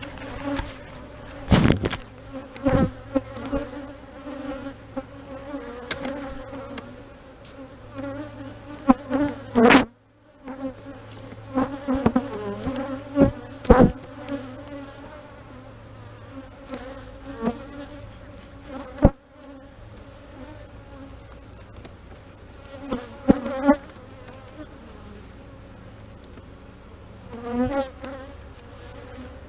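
Honey bees buzzing in a steady hum around an open hive. Sharp knocks and clicks come at irregular moments from wooden hive parts being handled, the loudest about ten seconds in.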